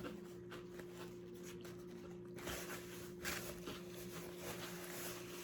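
Quiet room tone with a steady low electrical hum and faint, scattered soft rustles and taps.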